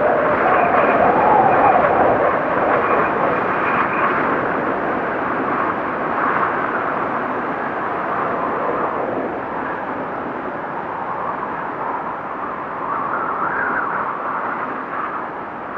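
Blizzard wind howling: a continuous rush with a wavering pitch that swells and eases in gusts.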